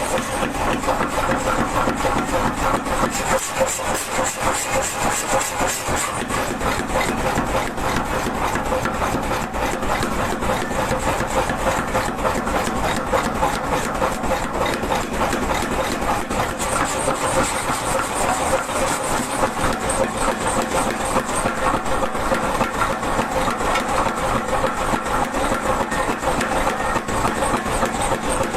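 Power hammer running continuously, its ram striking a hot Damascus steel billet in a fast, unbroken series of heavy blows.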